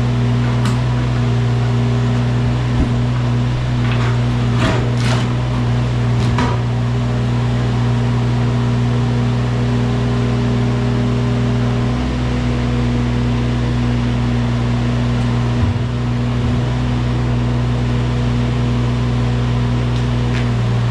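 Wacker Neuson mini excavator's diesel engine running steadily under work. A few short knocks and scrapes come about four to six and a half seconds in, typical of the bucket working against concrete.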